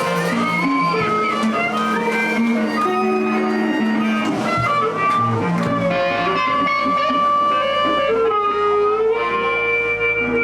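Live blues band playing: electric guitar lines over bass and drums.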